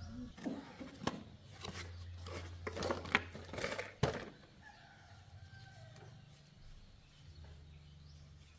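A run of sharp clicks and knocks, like metal parts being handled during a motorcycle repair, over a steady low hum, followed by softer calls, likely of domestic fowl, in the background.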